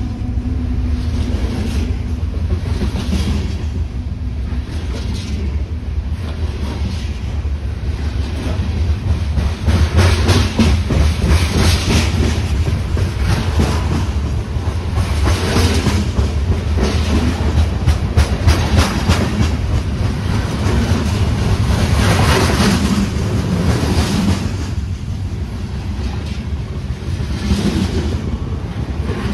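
Coal train's cars rolling past close by: a steady rumble of steel wheels on rail with irregular clacks as wheels cross rail joints, louder around ten and eighteen seconds in.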